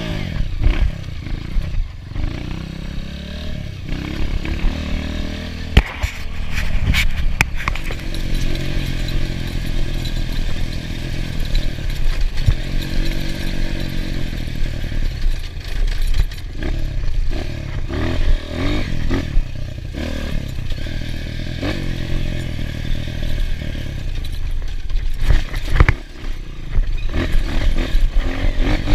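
Enduro dirt bike engine running hard, its pitch rising and falling repeatedly with the throttle, with clattering and thumps from riding over rough ground.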